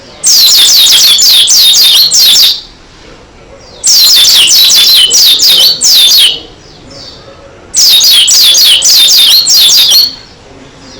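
Pleci dakun white-eye singing in three loud bursts of about two seconds each, every burst a rapid run of high, downward-sweeping notes, with quieter pauses between.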